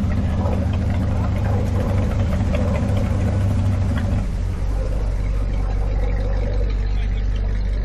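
Car engine running steadily at low revs, the note shifting to a deeper rumble about four seconds in, with faint voices in the background.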